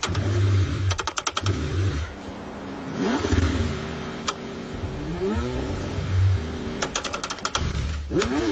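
Car engine cranking on the starter in the cold, in repeated bursts. Two runs of rapid clicks come about a second in and again near the end, and the engine pitch rises and falls in between.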